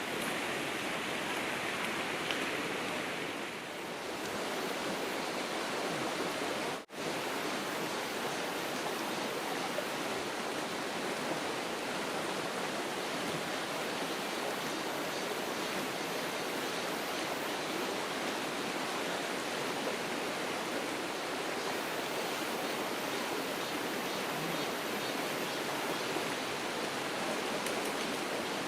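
Mountain valley stream rushing steadily over rocks, with a brief dropout about seven seconds in.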